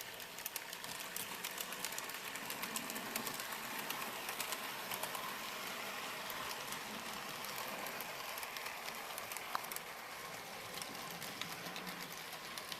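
HO-scale model train rolling past: a steady whir with rapid, irregular clicking of its wheels over the track.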